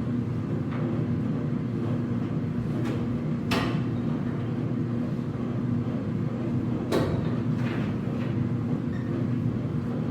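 Whirlpool clothes dryer running with a steady low rumble from the turning drum, the grinding rumble of worn drum rollers. Two short knocks sound over it, about a third of the way in and again past the middle.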